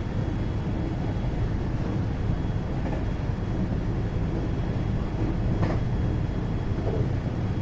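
Interior running noise in the motor car of a 521-series electric multiple unit: a steady rumble of wheels on rail and traction equipment while the train runs between stations. A brief sharper rattle comes about five and a half seconds in.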